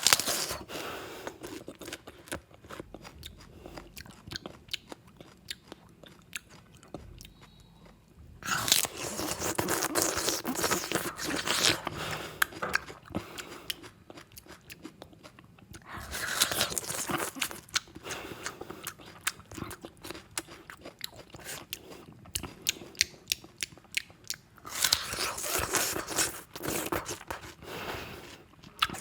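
Close-miked ASMR eating sounds: biting, crunching and chewing in quick clicks. They come in three louder stretches, about 9, 16 and 25 seconds in, with quieter mouth clicks between.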